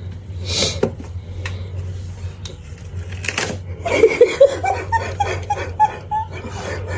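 A person laughing in a quick run of short 'ha' sounds from about four seconds in, over a steady low hum, with a couple of brief noisy rustles earlier.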